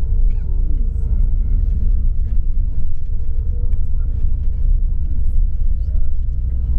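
Inside a moving tour coach: steady low engine and road rumble, with a faint steady hum above it and small scattered rattles.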